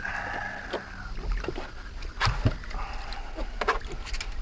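Water splashing and sloshing at the side of a small skiff as a hooked seatrout is worked close to the boat, with several sharp knocks and splashes, the strongest about two seconds in and again near three and a half seconds.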